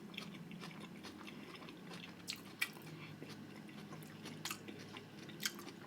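Quiet chewing of food, with a few scattered soft mouth clicks.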